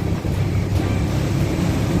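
Boat engines running steadily over rushing water, with wind buffeting the microphone.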